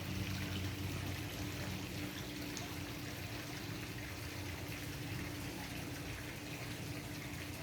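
Steady rushing background noise with a low, steady hum underneath and no distinct events.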